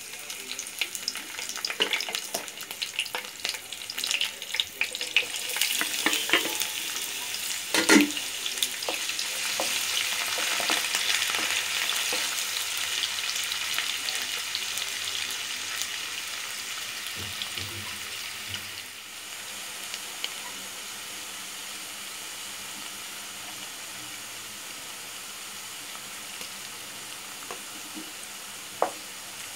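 Hot oil sizzling and crackling in a non-stick kadai as green chillies and then chopped onions fry, with a loud knock about eight seconds in. The sizzle settles into a steadier, quieter hiss for the second half.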